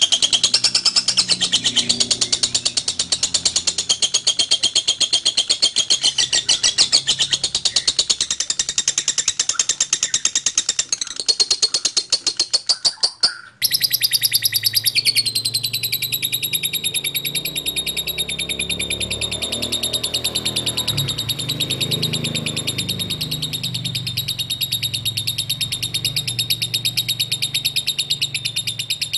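Lovebird singing its long unbroken chattering song (ngekek), a very rapid run of high notes. About halfway through it cuts abruptly to another recording of the same kind of song.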